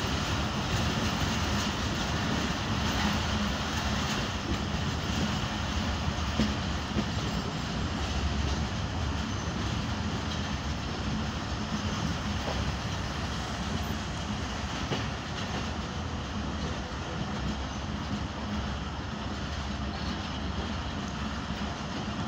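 Pakistan Railways passenger coach running along the track, heard from an open window: a steady rumble of wheels on rails with occasional sharp clicks over rail joints. It eases slightly after several seconds as the train slows on the approach to a station.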